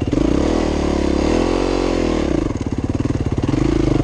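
Dirt bike engine revving up under throttle, its pitch rising for about a second and a half, then dropping back about two seconds in to a lower, pulsing run.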